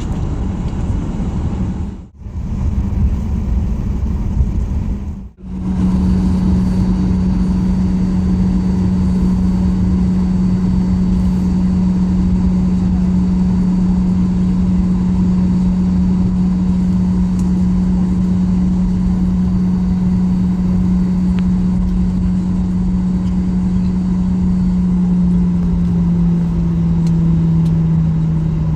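Cabin noise aboard a Boeing 737-800: a steady drone with a strong low hum. The sound drops out briefly twice in the first few seconds, and the hum shifts slightly lower in pitch near the end.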